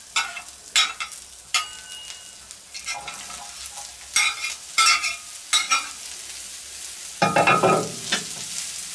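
Chopped vegetables and julienned carrots frying with a steady sizzle on a hot black grill plate over charcoal. A metal spatula scrapes and clicks as it pushes them off a board onto the plate, with a louder burst of sizzling and stirring about seven seconds in as the carrots are turned.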